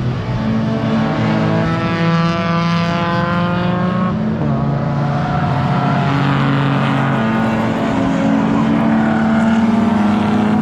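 Several race cars running on a circuit at high revs, their engine notes overlapping, holding steady and stepping in pitch as they shift gears and pass by.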